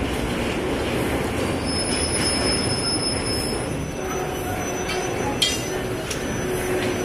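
Train rolling slowly through a station, its wheels on the rails giving a steady rumble and hiss. Thin high-pitched wheel squeals come and go, and a couple of sharp clicks sound near the end.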